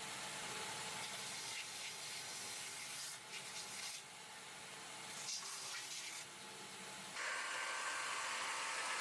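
Quiet, steady hiss of shoe-factory machinery. Its character shifts a few times, and it is brighter and hissier over the last couple of seconds.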